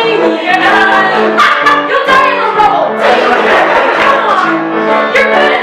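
Live piano accompaniment with voices singing over it, an improvised song with held chords underneath.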